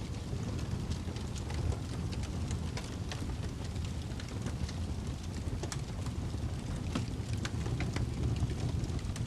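Fireplace fire crackling: irregular sharp pops and snaps scattered over a steady low rumble.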